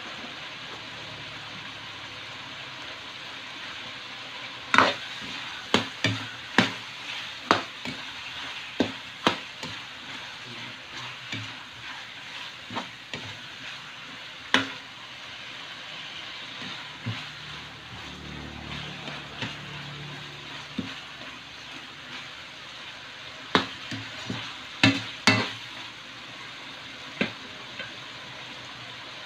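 Chicken adobo in tomato-paste sauce sizzling in a large wok, as a spatula stirs it and clacks against the pan. A run of sharp strikes comes from about five seconds in to about fifteen, and another few come near the end.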